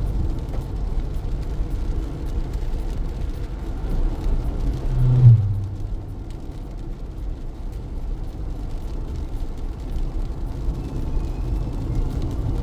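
Car driving through heavy rain: a steady low road-and-tyre rumble under the noise of the rain. About five seconds in comes a brief, louder sound that falls sharply in pitch.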